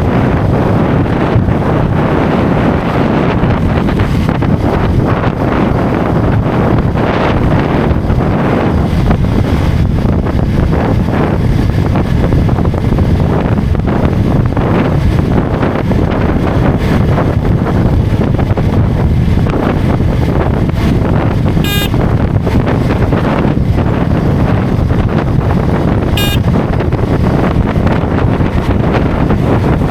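Heavy wind buffeting a motorcycle-mounted microphone at highway speed, a steady low rush with road and engine noise underneath. Two brief sharp sounds cut through it, about four and a half seconds apart, late on.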